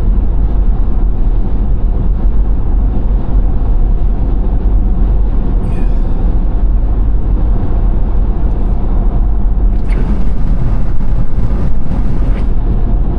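Steady road and tyre rumble of a car driving at freeway speed. A brighter rushing hiss joins for a couple of seconds near the end.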